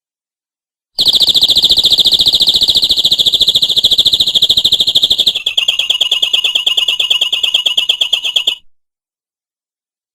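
Domestic canary singing one long, fast trill, a rapid even run of repeated notes. About halfway through it drops to a slightly lower roll, then breaks off abruptly.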